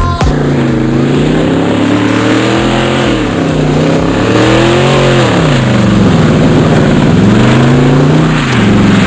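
Chevrolet V8 with dual glasspack mufflers revving, its loud exhaust note rising and falling in pitch several times.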